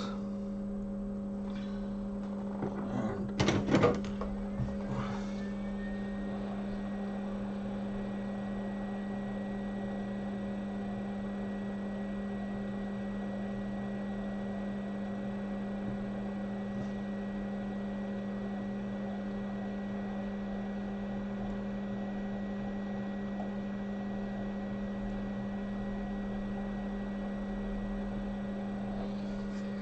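Hot air rework station running with a steady electrical hum. A higher whine glides in and settles about five seconds in. A brief clatter of tools comes a few seconds in.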